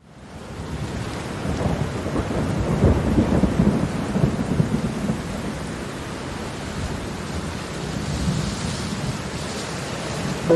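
Heavy rain with a long roll of thunder, fading in at the start and swelling to its loudest about two to five seconds in, then settling into a steady downpour.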